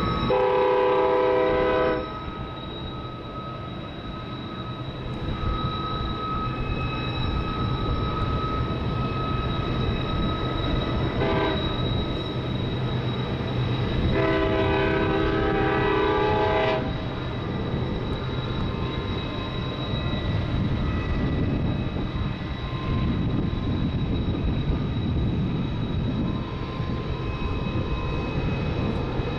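Train horn sounding a long blast, a short one about eleven seconds in, then another long blast. The horn plays several notes at once over a steady low running rumble.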